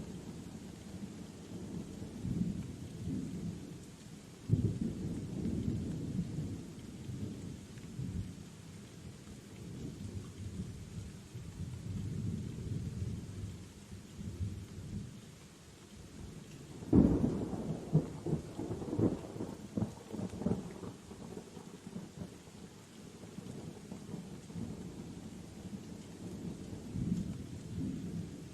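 Thunderstorm: steady rain under low rolling thunder. The thunder swells suddenly about four and a half seconds in, and again, loudest, about seventeen seconds in.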